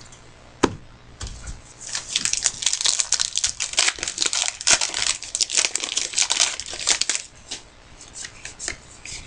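Trading-card pack wrapper being torn open and crinkled by hand: a single knock, then several seconds of dense crackling and tearing that thins to a few scattered crinkles near the end.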